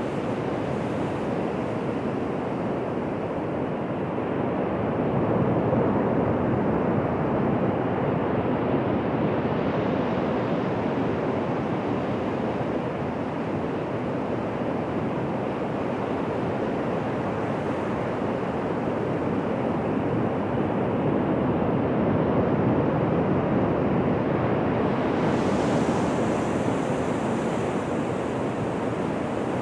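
Ocean surf washing onto a beach: a continuous rush of breaking waves that swells and eases in slow surges.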